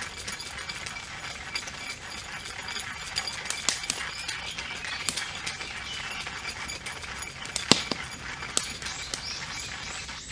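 Wood campfire crackling steadily, with a few sharp pops, the loudest a little past the middle. Birds chirp in the background.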